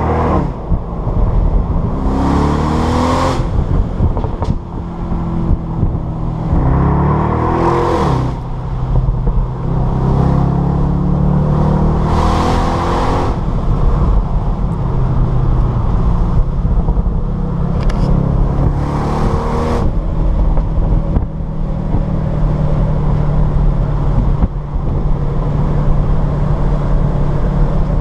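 The 4.0-litre twin-turbo V8 of a 2016 Bentley Continental GTC V8S heard from inside the car, accelerating hard several times, its note rising and then dropping at each upshift. For the last several seconds it runs at a steady cruise.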